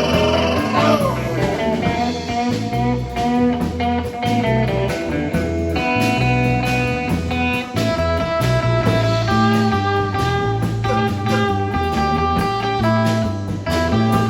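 Rock band playing an instrumental break: electric guitar lead notes over bass and drums, with a bent note about a second in.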